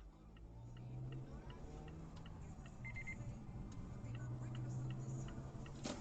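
Turn-signal indicator ticking inside a car cabin, about three ticks a second, over a low engine and road hum that grows louder. Three quick high beeps sound about three seconds in.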